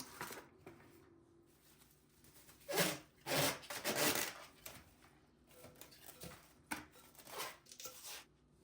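A few rough rubbing or scraping strokes, the loudest a cluster of three about three to four seconds in, followed by lighter scrapes and a sharp tap.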